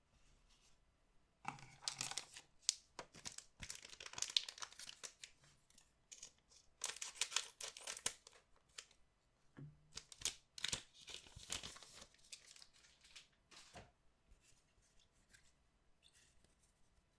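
Wrapper of a collectible card pack being torn open and crinkled by hand, in several bursts of tearing and rustling with small clicks between them.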